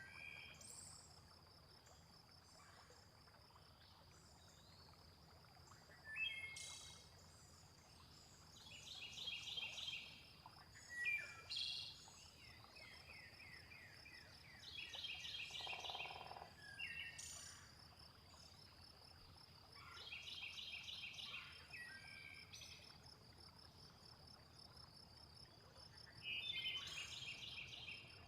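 Nature soundscape: a steady, high-pitched cricket drone with a songbird singing short trilled phrases every few seconds.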